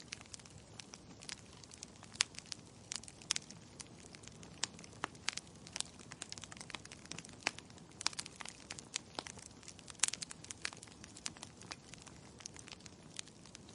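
Logs burning in a fireplace, crackling with irregular sharp pops, several a second, over a faint low rush of the flames; one louder pop comes about ten seconds in.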